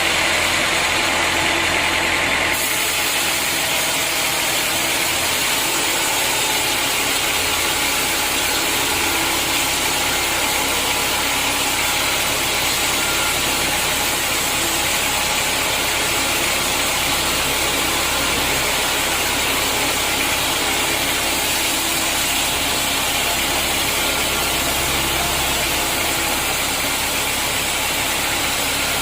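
Sawmill machinery running steadily, a continuous mechanical noise over a low hum; the sound changes abruptly about two and a half seconds in, then carries on unchanged.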